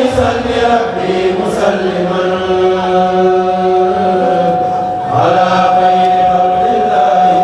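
A kourel choir of voices chanting a religious Arabic poem together, unaccompanied, drawing out long held notes. A new phrase starts about five seconds in over a high note that stays held.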